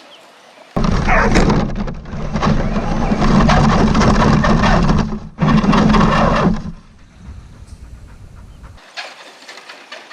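Electric RC truck running hard close by, its motor and tyres making a loud steady whirring noise for about six seconds, with a short break partway through, before it drops off. A dog gives a short bark or yelp as the noise begins.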